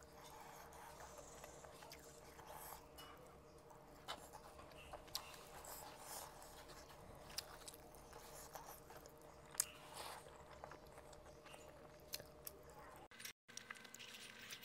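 Quiet close-up chewing and mouth sounds of smoked fish being eaten, with scattered small clicks and crackles as fingers pick at the fish and crisp flakes on a wooden board, over a faint steady hum. The sound cuts out for a moment near the end.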